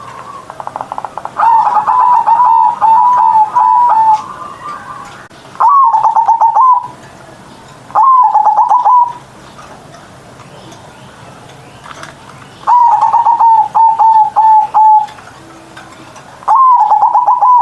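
Zebra dove (perkutut) singing: five phrases of rapid staccato notes running into a string of soft, falling coos around 1 kHz, with pauses of a second or more between them.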